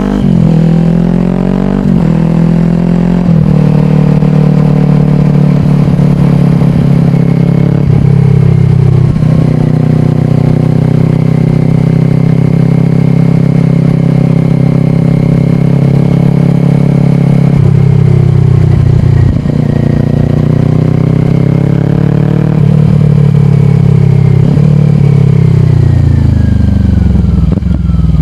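2022 Kawasaki Ninja 400's parallel-twin engine through a slip-on exhaust, accelerating with quick upshifts in the first few seconds and then holding steady cruising revs. Near the end the revs fall away as the bike slows.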